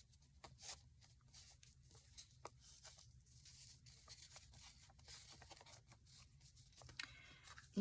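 Faint rustling and light taps of paper and card being handled, with a few slightly louder clicks scattered through.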